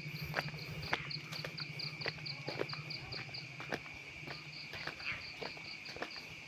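Night insects such as crickets calling: a steady high trill with a faster pulsing chirp above it, about five pulses a second. Footsteps on the path tap along about twice a second, and a low hum fades out about halfway through.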